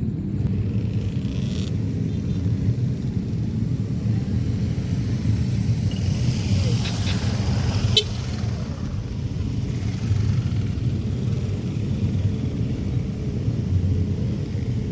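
Jet engines of a departing Airbus A330 airliner, heard as a steady low rumble, with a brief swell of hiss around the middle and a few sharp clicks about eight seconds in.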